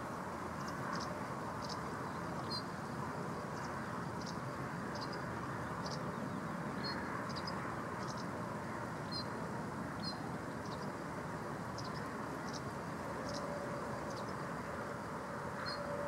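Short high bird chirps, some in quick pairs, recurring every half second to a second over a steady low background rumble.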